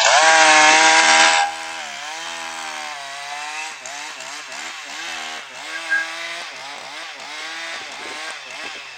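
Two-stroke chainsaw running, revved hard for about the first second and a half, then quieter, with its engine speed wavering up and down.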